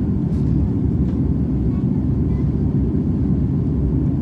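Steady low rumble of an Airbus A330 in flight, engine and airflow noise heard from inside the cabin.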